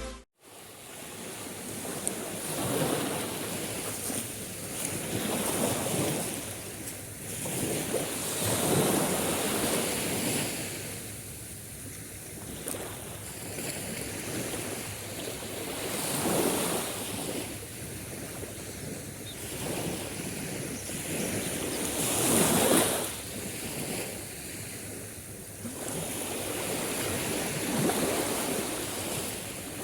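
Sea waves washing onto a beach, the surf swelling and ebbing every two to three seconds, with the loudest surge about three quarters of the way through.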